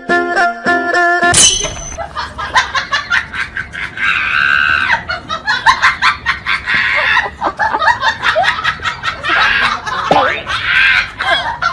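Plucked-string music that cuts off about a second in. Then comes loud, choppy laughing and shrieking, with high, bending cries around the middle and again near the end.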